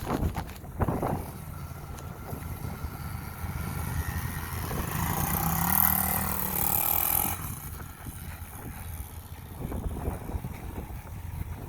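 Pit bike's small four-stroke single-cylinder engine running. It revs up and grows louder from about four seconds in, peaks around six to seven seconds, then falls away suddenly and runs on more quietly.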